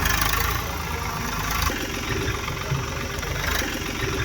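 Motor of a homemade mini tractor running steadily with a low, even rumble.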